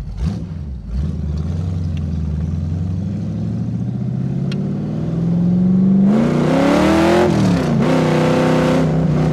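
Shelby AC Cobra replica's V8 engine cruising at low revs, then opened up about six seconds in: the engine note climbs hard under acceleration, drops sharply at a gear change a second and a half later, and pulls on loudly in the next gear.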